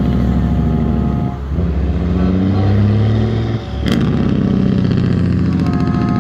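Heavy diesel truck engine running under load, its revs climbing and dropping back twice. There is a sharp click about four seconds in.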